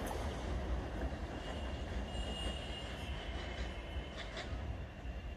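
A passenger train running away on a curved track, its rumble slowly fading. A faint, thin wheel squeal rises about halfway through.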